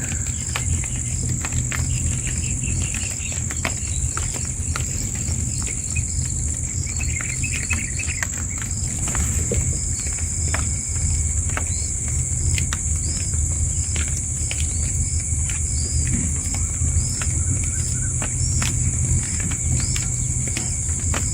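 Outdoor natural ambience: a steady high-pitched insect drone, with short bird chirps repeating about every half second and scattered clicks over a low rumble.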